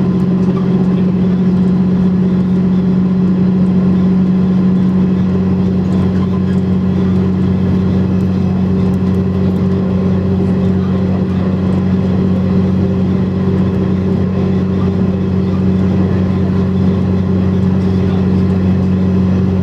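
KiHa 100 diesel railcar's engine running steadily under way, heard from inside the train: an even drone with a strong low hum and no change in level.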